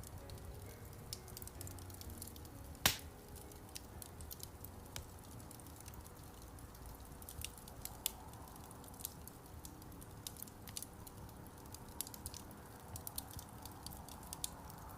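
Wood fire crackling in a fireplace: irregular sharp snaps over a low steady background, with one loud pop about three seconds in and a quicker run of small crackles near the end.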